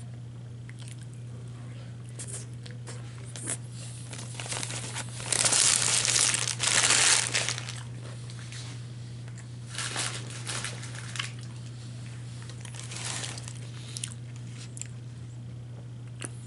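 Food wrapper paper crinkling and rustling in bursts, the longest lasting a few seconds in the middle, with crunching from eating a KFC chicken wrap, over a steady low hum.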